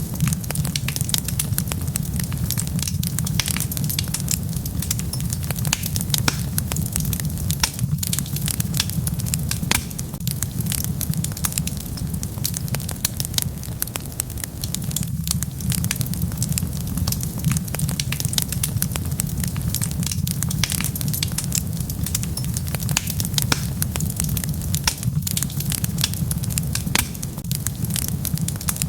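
Wood fire burning, with dense, irregular crackles and pops over a steady low rumble of the flames.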